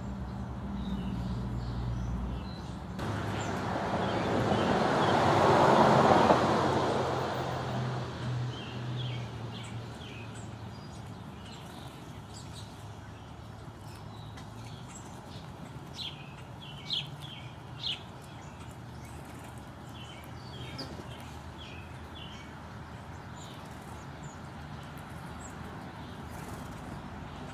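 Small birds chirping at a feeding spot, short high calls scattered throughout. A passing vehicle swells and fades early on, loudest about six seconds in.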